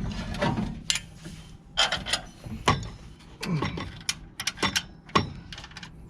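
Irregular metal clicks and clinks of bolts, nut and the blower motor's steel mounting base being worked into place, a sharp knock every half second to a second, some ringing briefly.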